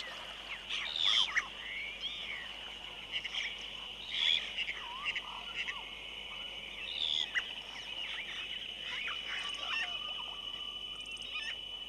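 A colony of yellow-rumped caciques calling: many overlapping whistled calls that rise and fall, with short sharp notes, over a steady high insect drone.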